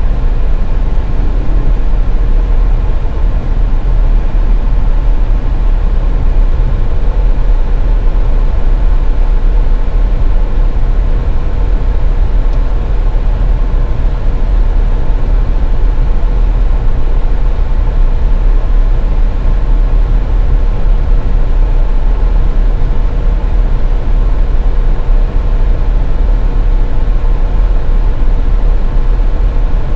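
Car driving on a highway: a steady low rumble of road, tyre and engine noise with a faint constant hum, unchanging throughout.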